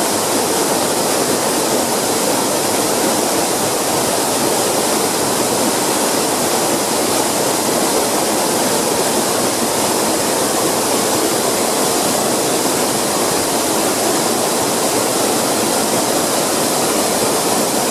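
Waterfall: water falling in a loud, steady rush, unchanging throughout.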